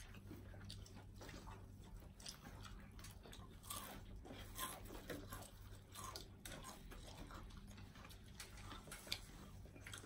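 Faint eating sounds from several people eating fried chicken with their hands: chewing and biting with many small scattered crackles and clicks, over a low steady room hum.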